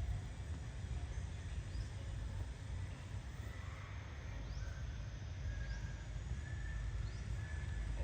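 Outdoor background noise: a steady low rumble with a few faint, short, high chirps scattered through it.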